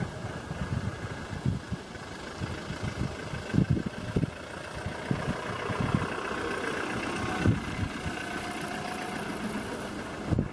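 Safari vehicle's engine idling steadily, with irregular low thumps.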